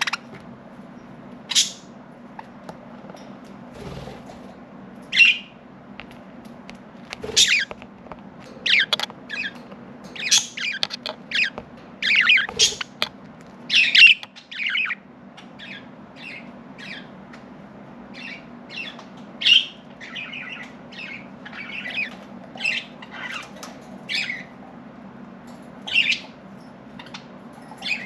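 Budgerigars chirping and squawking in many short, high calls, with a busy run of calls in the middle. A faint steady hum runs underneath.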